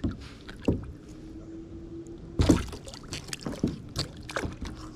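Scattered knocks and light splashing against a kayak as a small, feisty largemouth bass flaps while being handled, the loudest knock about two and a half seconds in.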